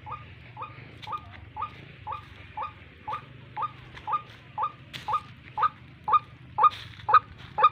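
A recorded white-breasted waterhen call played through a small speaker as a hunting lure: short notes repeated about twice a second, growing louder toward the end.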